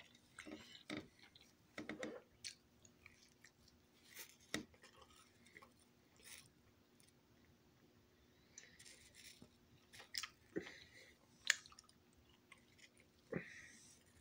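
A person chewing pizza close to the microphone: faint, irregular mouth clicks and short smacks, scattered through with no steady rhythm.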